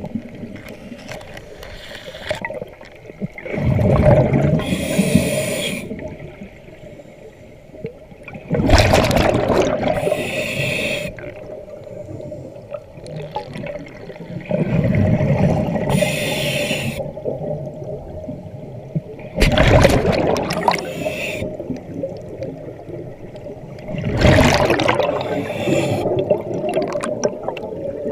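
Diver breathing underwater through a regulator: a quieter hiss of each breath in, then a loud gurgling rush of exhaled bubbles, about every five seconds, over a steady hum.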